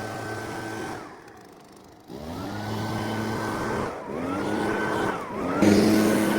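Small petrol engine of lawn-care power equipment being throttled: it winds down about a second in, then spools back up and holds speed. It eases off and revs up again twice more.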